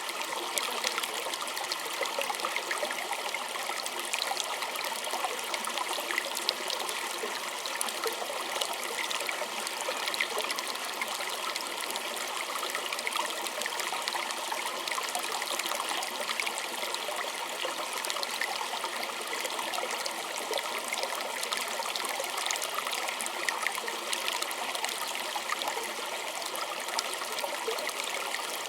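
Small stream of water running and trickling steadily, with many small splashes and gurgles.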